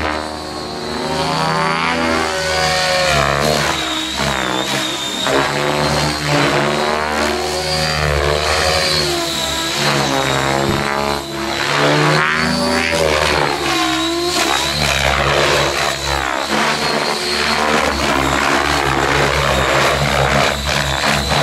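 Electric RC helicopter driven by an Align 750MX brushless motor in flight: the rotor blades thrum under a steady high motor and gear whine, and the sound swells and shifts as the model moves about.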